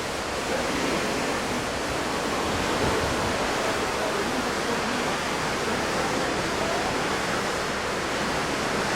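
Steady rushing of sea water alongside a cruise ship, mixed with wind, with no distinct events.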